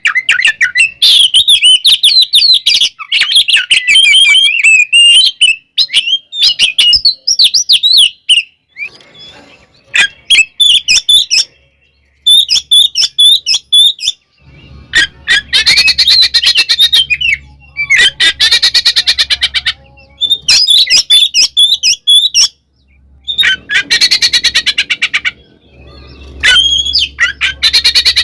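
Oriental magpie-robin (kacer) singing in loud bursts of quick, varied whistled phrases with short pauses between them, broken several times by rapid harsh rattling chatter.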